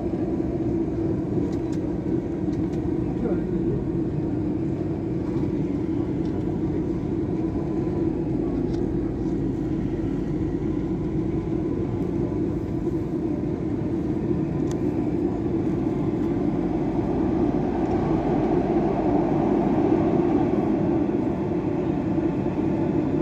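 Dubai Metro train heard from inside the carriage while running between stations: a steady rumble and hum of wheels on rail and the car's running gear, growing a little louder in the second half.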